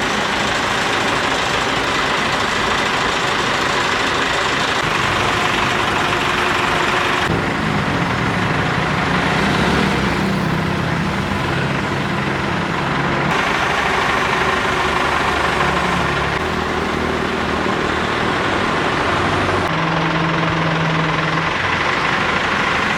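Old excavator's diesel engine running steadily, its low engine note shifting a few times.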